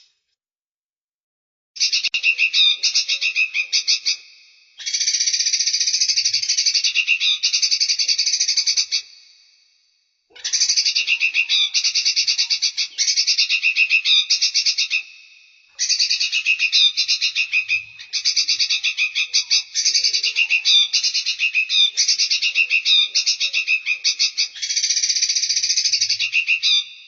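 Songbird from a bird-training recording calling in long bursts of rapid, high, rattling trill, each lasting a few seconds with short pauses between. The first burst starts about two seconds in.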